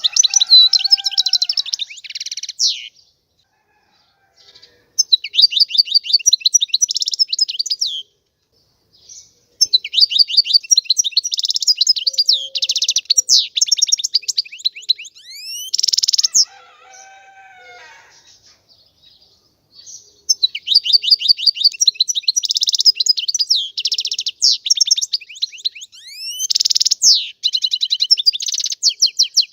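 European goldfinch singing: long phrases of rapid twittering trills and quick sweeping notes, broken by short pauses of a second or two.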